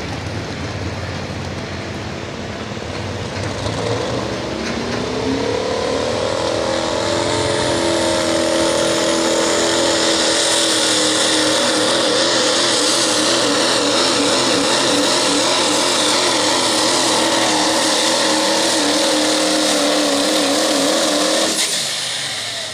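Pro stock diesel pulling truck making a pass: the engine and turbo spool up about four seconds in, then run flat out at high revs for about fifteen seconds with the pitch wavering, and shut off sharply near the end.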